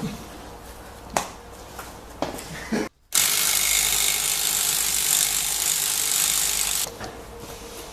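A few light metal clicks, then a steady, loud mechanical hiss of an air tool running for about four seconds, stopping sharply.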